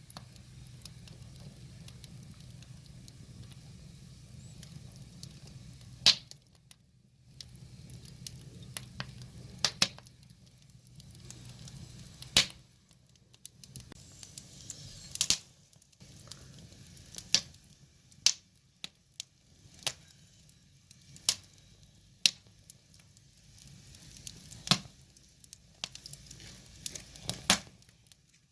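Firewood burning, with about a dozen sharp pops and crackles at irregular intervals over a low steady hum.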